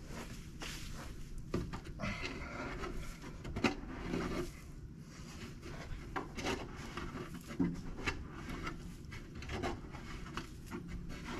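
Packed sawdust being dug and scraped out of a plugged sawmill dust-collector blower: irregular rubbing scrapes with a few sharp knocks.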